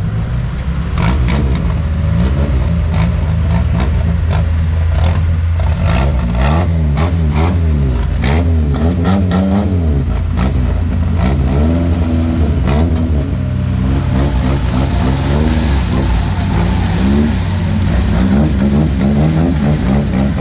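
Off-road vehicle's engine revving up and down over and over under load, with a run of knocks and clatters in the first two-thirds.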